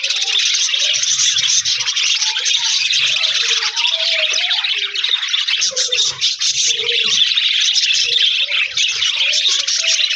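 Budgerigars chattering and warbling without a break, many birds calling at once in a dense, high chirping mixed with lower warbled notes.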